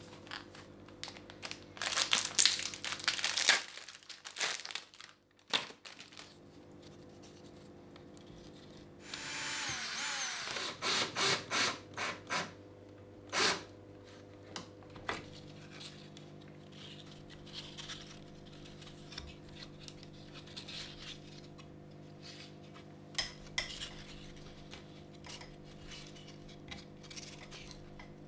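Handling and tool noises: scattered clicks, knocks and scraping, with a longer noisy stretch about nine seconds in, over a steady low hum.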